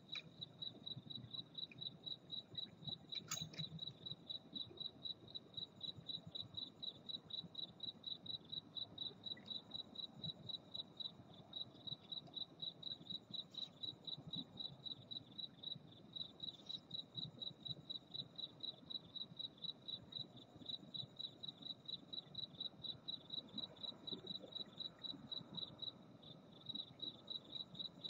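A cricket chirping steadily in a high, even rhythm of about three chirps a second, with a short pause near the end.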